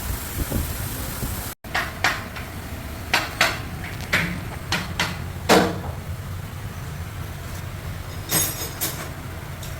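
Sharp metallic clanks and knocks at irregular intervals, clustered in the first half and a few more near the end, over a steady low hum.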